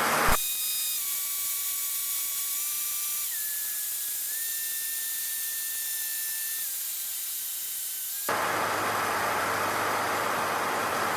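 Steady hiss with thin high whine tones that shift in pitch in a few steps, heard through the Cessna 152's intercom audio feed. About eight seconds in, the fuller engine and cabin noise cuts in abruptly and carries on.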